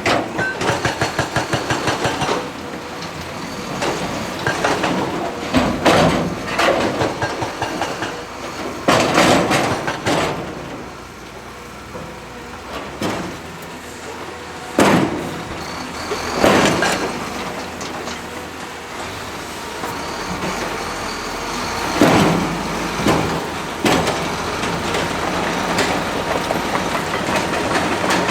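Heavy excavator working rock and earth: the engine runs under load while the steel bucket and tracks clank, rattle and scrape, with a fast rattle in the first couple of seconds and about eight separate loud clanking surges.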